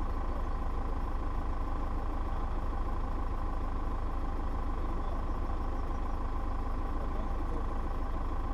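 4x4 SUV's engine idling steadily while the vehicle stands still, heard through a camera mounted on its body: an even low rumble with a steady hum over it.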